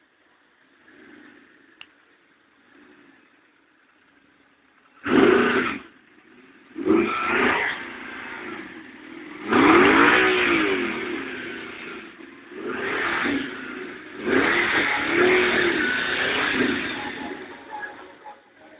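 Audi R8 engine and exhaust, revved hard several times in short bursts after a few quiet seconds; the pitch climbs and falls with each rev.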